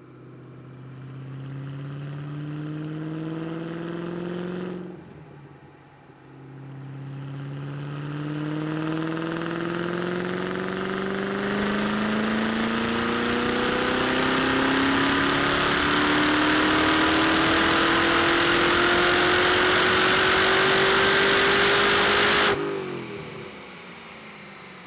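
Ford GT's 3.5-litre twin-turbo EcoBoost V6 on a chassis dyno. The revs climb for about five seconds, drop off briefly, then a long full-throttle dyno pull climbs steadily in pitch and loudness for about sixteen seconds before the throttle is cut abruptly and the engine falls away.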